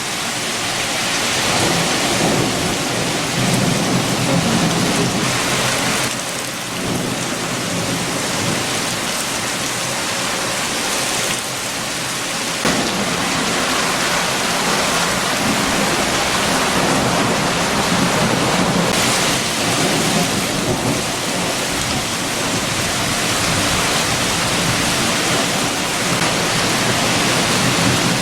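Heavy rain falling steadily with strong wind, a low rumble swelling and easing beneath the hiss of the rain.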